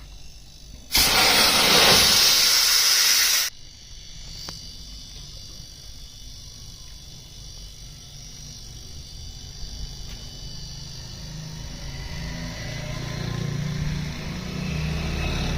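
A spray hisses loudly for about two and a half seconds, then stops abruptly, typical of a cleaning spray aimed at a fridge condenser. A quieter background follows, with a low hum building near the end.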